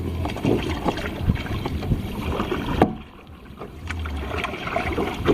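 Kayak paddling: irregular water splashes and small knocks from paddle strokes, over a low rumble of wind on the microphone that drops away about three seconds in, then returns.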